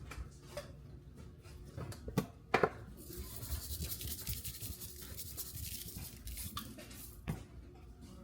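Handling sounds from preparing seasoned ground beef for burgers: two sharp knocks a little over two seconds in, then a few seconds of scratchy rubbing that stops near the end.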